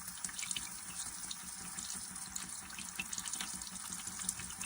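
Water leaking in a steady flow from a failed PEX elbow connection under supply pressure: a continuous hiss of running water with small spattering ticks of drops. The fitting at the elbow has not sealed.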